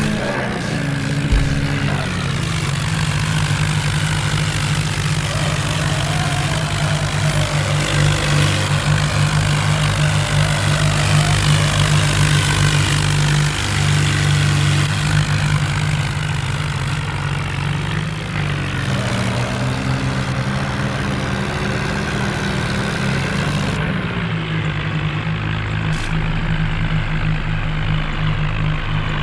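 Tractor diesel engine running with a steady low drone, its pitch shifting slightly about two-thirds of the way through.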